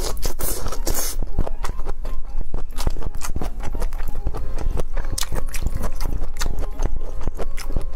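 Close-miked wet chewing of a mouthful of spicy, sauce-coated fried enoki mushroom: a quick, irregular run of sticky mouth smacks and clicks.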